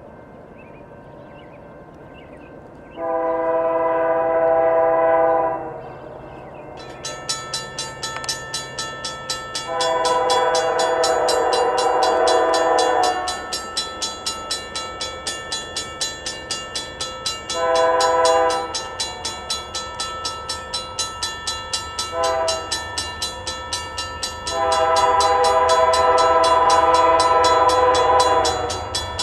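Diesel locomotive air horn, a multi-note chord, blowing the grade-crossing signal: two long blasts, a short one, a brief toot, then a long blast. From about seven seconds in, a crossing bell rings rapidly beneath it, and a low locomotive rumble builds toward the end as the train nears.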